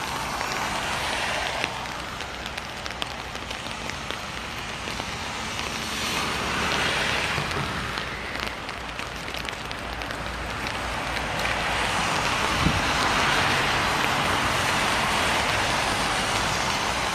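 Rain falling on a city street with cars driving past on the wet road. Their tyre noise swells and fades, once around six to eight seconds in and again for longer from about twelve seconds.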